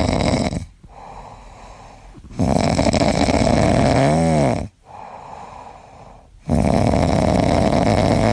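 A pet snoring: three long snores about two seconds apart, with quieter breaths between them. The middle snore ends in a brief whistle that rises and falls.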